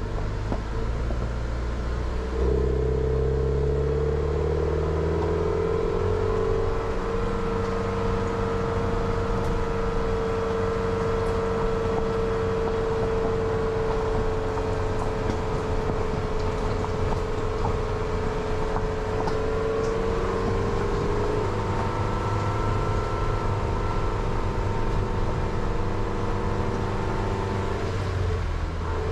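Jeep Renegade engine running at low road speed on a rough forest track. About two seconds in it picks up and rises in pitch as the car accelerates, then holds a steady note, dropping slightly about two-thirds of the way through. Occasional faint ticks sound over it.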